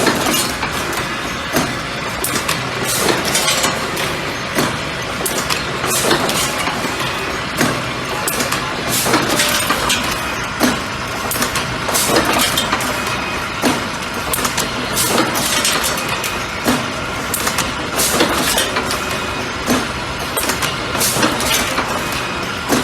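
Automatic bucket-handle making machine running: a steady mechanical hum with a sharp knock repeating about every second and a half as the machine cycles.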